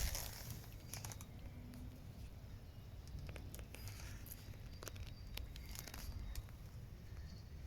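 Faint low rumble with scattered light clicks and ticks.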